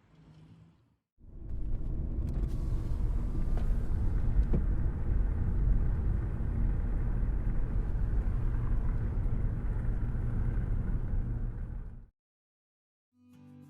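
A steady low rumble that starts about a second in and cuts off abruptly near the end.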